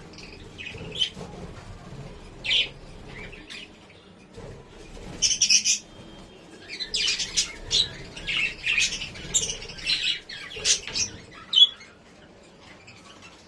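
Budgerigar chirping and warbling in short, high bursts, thickening into a run of rapid chatter in the second half and stopping near the end.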